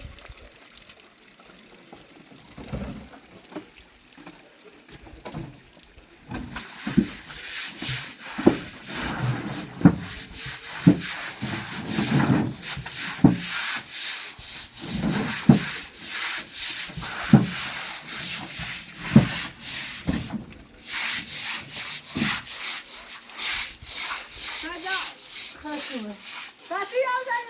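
Repeated scraping and rubbing strokes, many with a dull thud beneath them, starting about six seconds in at roughly one a second and quickening to two or three a second near the end.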